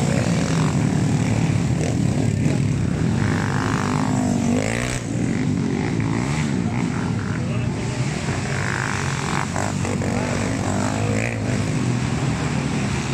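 Small-capacity Honda XRM underbone motorcycles racing, their engines revving up and down continuously.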